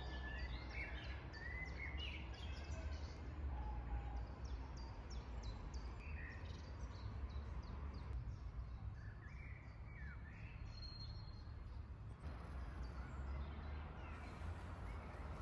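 Several songbirds singing: chirps, short whistled glides and a quick series of high notes through most of the stretch. A steady low rumble runs underneath.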